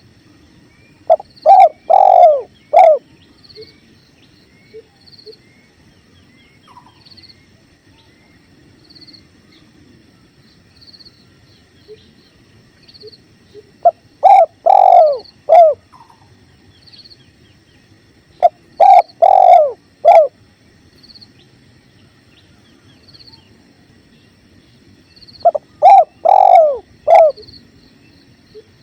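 Spotted dove (tekukur) cooing: four loud phrases of a few coos each, one near the start, two in the middle and one near the end. A steady low rush of river flow runs underneath, and a faint high chirp repeats about once a second.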